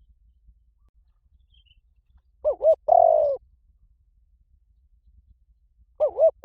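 Spotted dove cooing, a recorded lure call: a three-note phrase of two short arched coos and a longer falling coo about two and a half seconds in, and the same phrase starting again just before the end.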